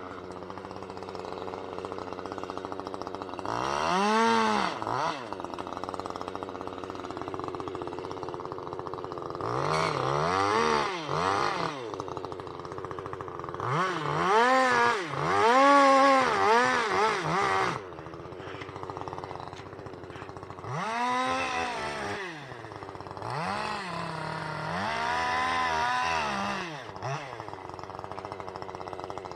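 Two-stroke chainsaw idling and being revved up and down in a series of short bursts, the pitch climbing and dropping with each blip of the throttle, with the longest stretch of revving a little past the middle.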